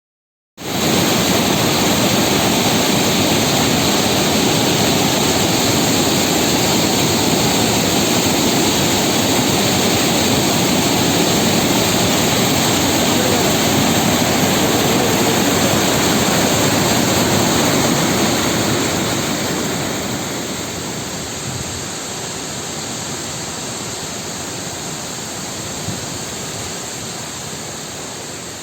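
Waterfall pouring with a loud, steady rush of water. The sound eases off somewhat about two-thirds of the way through and stays a little quieter.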